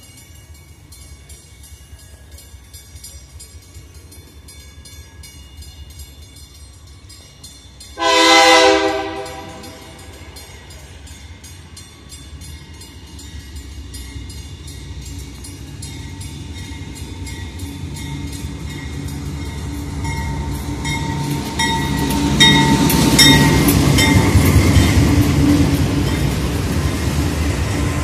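A diesel freight train approaching. About eight seconds in, the lead GE locomotive's K5LA air horn sounds one short, loud chord. After that the locomotive's engine rumble and the wheels on the rails grow steadily louder as it draws close and passes.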